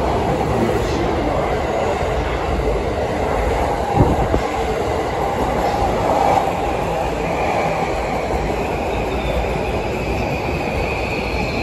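JR East electric commuter trains running through a station. A train pulls out close by with a steady rumble and wheel clatter, and there is a sharp knock about four seconds in. From about seven seconds a high thin whine comes in and holds.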